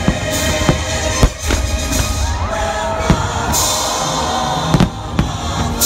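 Firework shells bursting in a series of sharp bangs, the loudest a little over a second in, over the fireworks show's music soundtrack.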